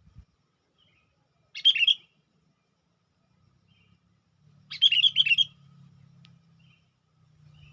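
Sooty-headed bulbul (kutilang) giving its lure call: two quick, bubbly phrases of several notes, the second and longer one about five seconds in, with a few faint short notes between them.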